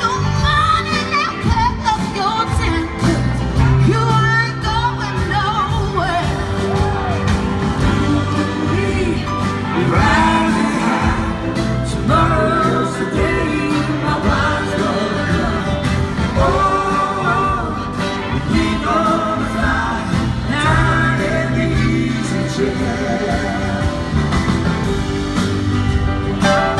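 A live rock band playing an instrumental passage: a lead line gliding up and down in pitch over steady bass and drums.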